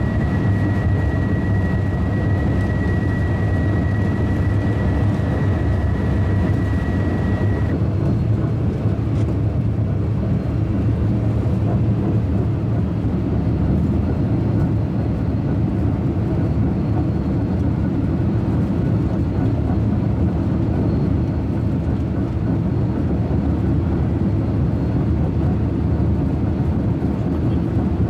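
High-speed train running at speed: a steady low rumble, with a thin high whine that stops about eight seconds in.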